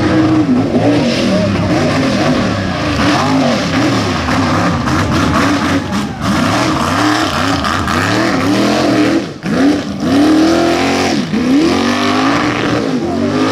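A mega truck's engine revving loudly during a mud bog run, its pitch climbing and falling over and over, with a short drop about nine seconds in.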